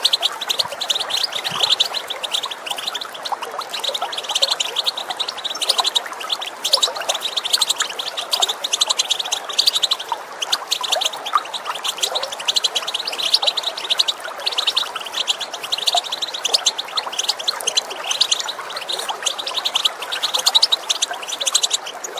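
European goldfinches calling and twittering in a rapid, unbroken stream of short high chirps, over a steady rush of running water.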